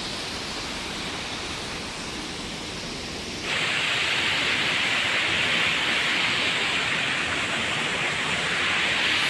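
Waterfall: a steady rush of falling water. About three and a half seconds in it suddenly becomes louder and hissier.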